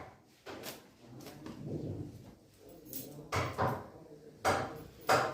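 Thin cotton towel (gamchha) worked against long wet hair: soft rubbing and rustling, then several sharp slaps of the cloth, mostly in the second half.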